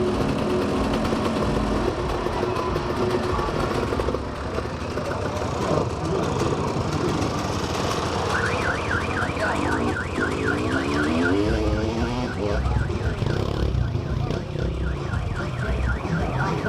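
A warbling electronic alarm tone repeating about four times a second starts about halfway in, over the running engines of motocross motorcycles, which give a few rising revs shortly after it begins.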